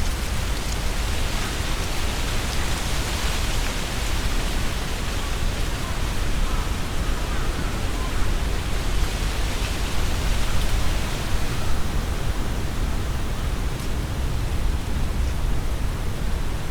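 Strong wind gusting through tree foliage: a steady rustling hiss of leaves that swells in gusts, over a constant deep rumble of wind.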